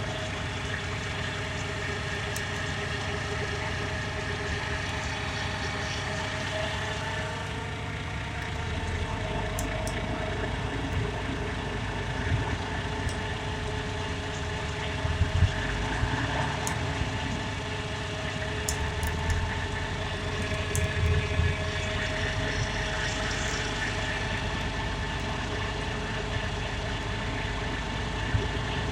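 Heavy truck engine running steadily, with a few louder low knocks about halfway through and again a little later.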